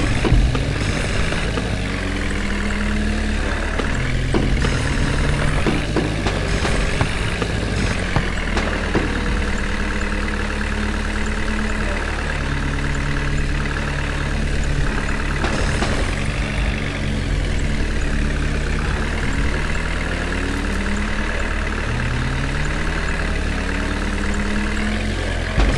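Heavy diesel engine running, its pitch rising several times as it revs up and settling back, with a few knocks.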